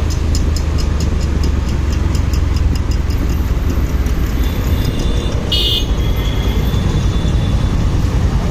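Motorcycle riding on the road: a steady engine and road rumble, with a run of regular ticks, about four a second, in the first three seconds. A short horn toot sounds about five and a half seconds in.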